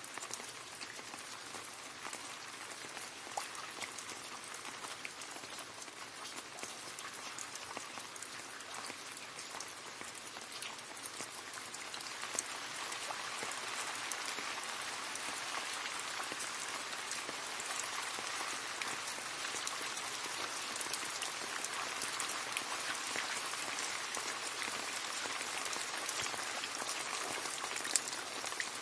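Steady rain falling into a puddle: dense pattering and splashing of drops on water, growing a little heavier about halfway through.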